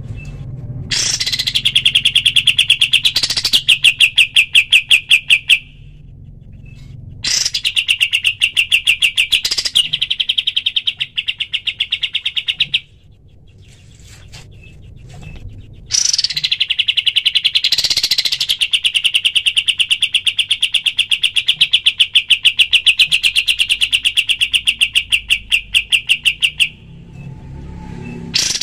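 Kapas tembak bird singing its rapid-fire 'tembakan' song: long trains of fast, evenly repeated sharp notes in three bouts with short pauses between them, and a new bout starting near the end.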